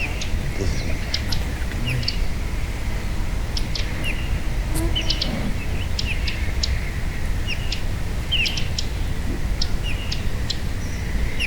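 Several small birds chirping and calling in short, high notes, over a steady low rumble.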